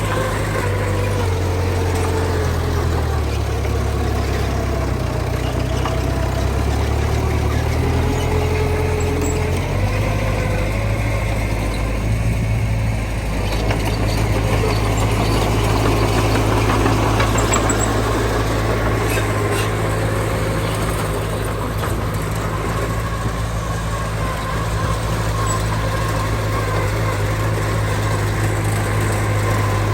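Heavy diesel engine of earth-moving equipment running steadily, its pitch shifting during the first ten seconds and then holding, with a few faint clicks later on.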